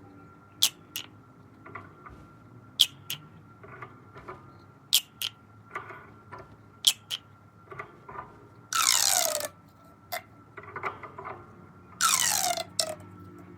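Pop tube toy being handled: sharp snaps in pairs about every two seconds, then twice a whirring sound of under a second whose pitch falls steeply as the ribbed tube is stretched or compressed.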